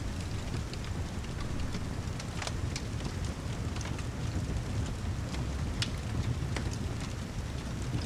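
Steady heavy rain with a deep, even rumble, mixed with a fireplace crackling in scattered sharp pops.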